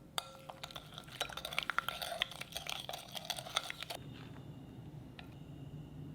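Metal utensils clinking rapidly against dishes for about four seconds, then stopping abruptly.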